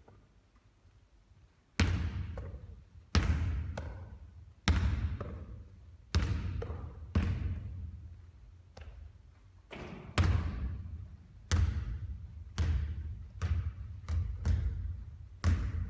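A basketball bouncing hard on a court floor, about a dozen loud bounces with a ringing echo, roughly one every second or so, starting about two seconds in.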